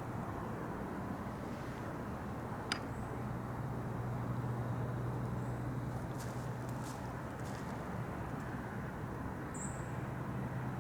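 Steady low outdoor background noise with a faint steady hum, a single sharp click about two and a half seconds in, and a short high chirp near the end.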